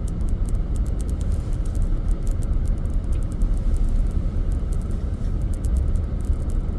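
A Chevrolet Suburban driving slowly through deep snow, with a steady low rumble of tyres and engine and scattered light clicks and crackles.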